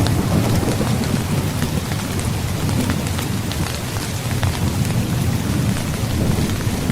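Steady heavy rain with a continuous low rumble of thunder underneath and scattered sharp drop ticks on top.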